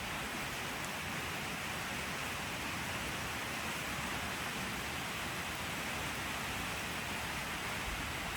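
Steady rain falling, an even continuous hiss without distinct drops or changes.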